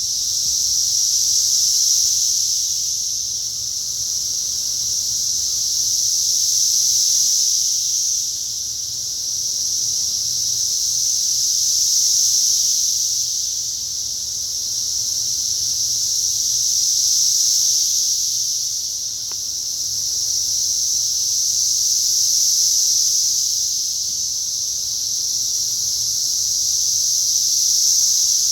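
Dense chorus of periodical cicadas from the 2021 Brood X emergence: a continuous high-pitched buzzing drone that swells and fades in waves about every five seconds.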